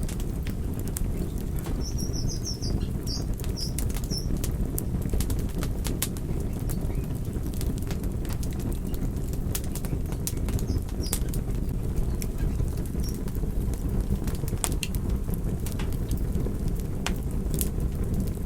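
Wood fire crackling: sharp, irregular pops and snaps over a steady low rumble. A quick run of high chirps comes about two seconds in.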